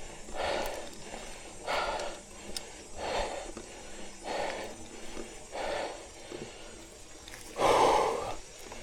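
A cyclist breathing hard while pedalling uphill in first gear, heavy breaths about one every second and a bit, with a louder, longer exhale near the end.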